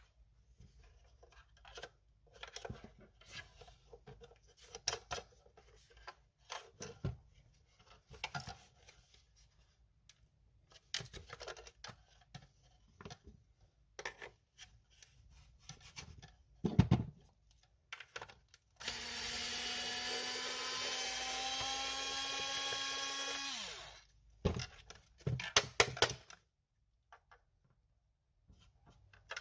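Clicking and knocking of parts being handled, then a small electric motor runs steadily for about five seconds, starting about 19 s in, and spins down, its pitch falling as it stops. A few more clicks follow.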